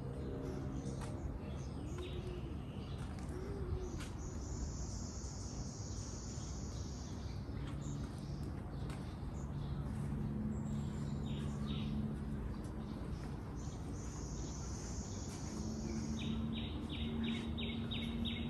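Outdoor ambience of birds and insects over a steady low rumble: a high buzzing call repeats three times, each lasting two to three seconds. Soft low coos come in the first few seconds, and a quick run of regular ticks comes near the end.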